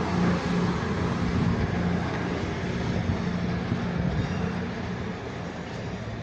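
Two coupled Class 221 Voyager diesel-electric units pulling out of the station, their diesel engines giving a steady drone that slowly fades as the train moves away.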